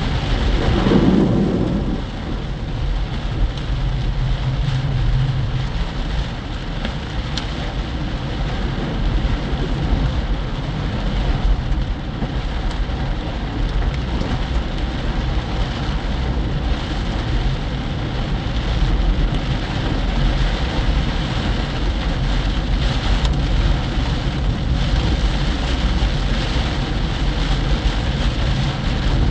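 Heavy rain pelting a car on the highway, a dense steady hiss over a constant low road rumble, with a brief louder low rumble about a second in.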